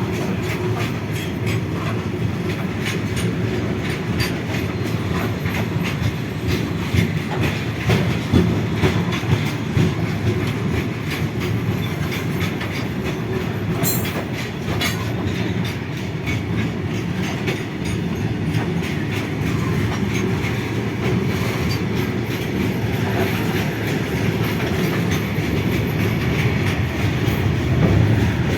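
Freight train passing over a railway bridge: a steady heavy rumble with the rhythmic clickety-clack of wagon wheels over rail joints, and a few louder knocks.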